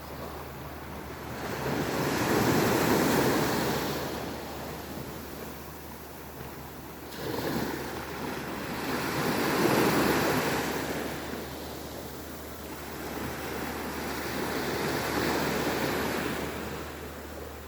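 Sea waves breaking and washing in, surging three times a few seconds apart, over a steady low rumble.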